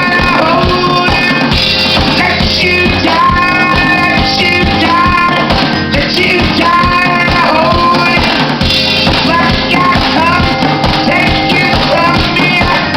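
Live indie rock band playing a song: sung vocals over a steady drum-kit beat with other instruments.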